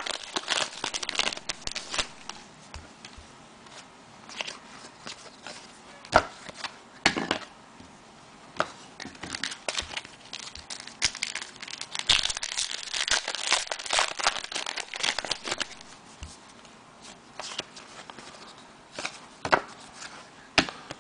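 Plastic trading-card packaging crinkling and tearing, with irregular small clicks and rustles as the cards are handled. It comes in uneven flurries, louder about six seconds in, in the middle and near the end.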